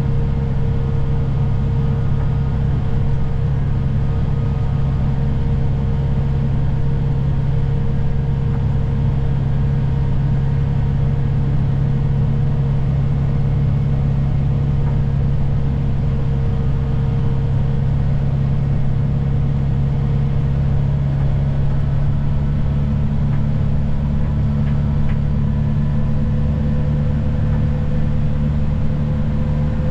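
Snow-plow vehicle's engine running steadily under load, a constant low drone with faint steady tones above it.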